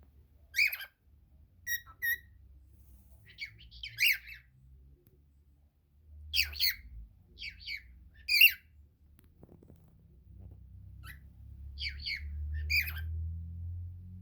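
Cockatiel giving short chirps and squawks, about a dozen scattered calls, some in quick pairs, over a low rumble that grows louder near the end.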